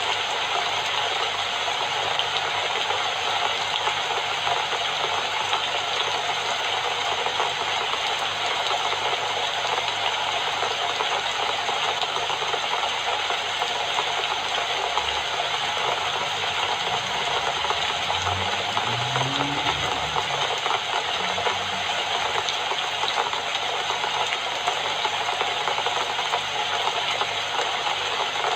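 Steady rain falling, a dense even hiss with no change in strength. A faint low rumble rises and fades about two-thirds of the way through.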